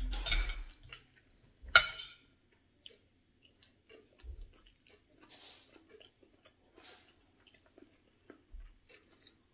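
A person chewing a mouthful of seafood with soft, wet clicks and smacks. About two seconds in, one sharp clink of a spoon against the plate is the loudest sound.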